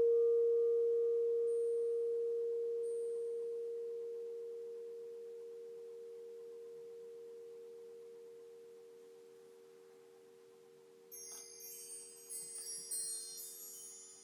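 Alchemy crystal singing bowl ringing out on one low steady tone that slowly dies away. About eleven seconds in, a flurry of high tinkling chime notes comes in over it.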